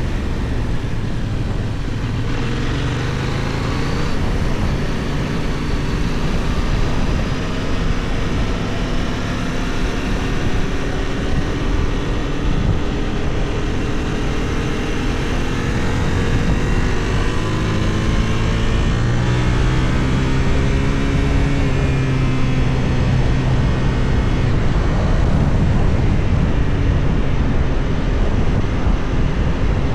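Benelli Tornado 550's 554 cc 270° parallel-twin engine pulling on the road, its pitch rising under acceleration and dropping back several times as the rider works through the gears, with heavy wind noise on the microphone.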